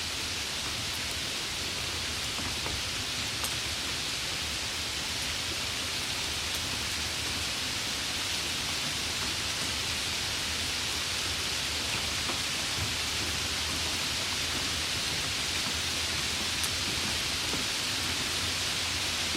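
Steady rain falling, an even hiss with a few faint drop ticks and a low rumble underneath.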